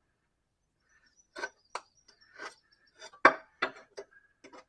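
Metal scraper knocking and scraping caked clover debris from the underside of a mower deck: a run of short, uneven scrapes and knocks, the loudest about three seconds in.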